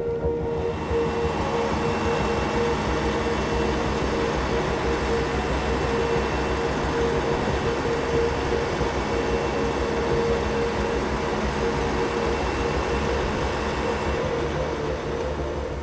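A train running on rails, a steady rumble and rail noise, with background music holding a steady tone underneath.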